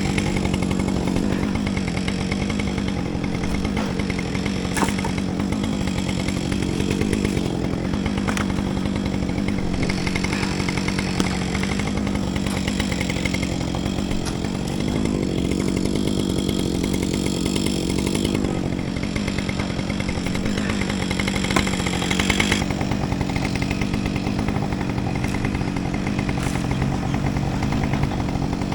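Two-stroke chainsaw running steadily, its engine pitch wavering and dipping slightly now and then.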